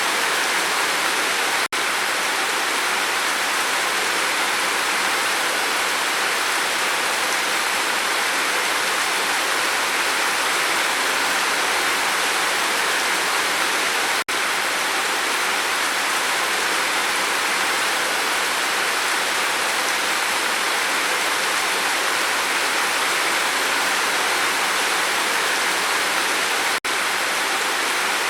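Steady rain falling on a roof, an even hiss. It cuts out for an instant three times, about every twelve seconds.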